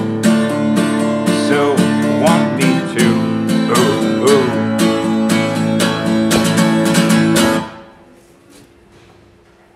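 Acoustic guitar strumming the song's closing bars, then stopping abruptly about three-quarters of the way through, leaving faint room sound.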